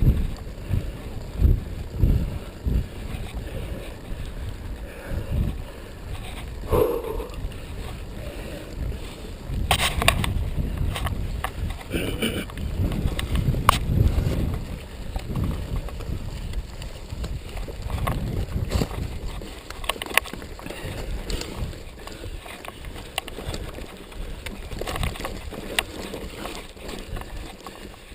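Mountain bike rolling along a dirt trail: a continuous low rumble of wind and ground noise on the microphone, with scattered knocks and rattles from the bike over bumps.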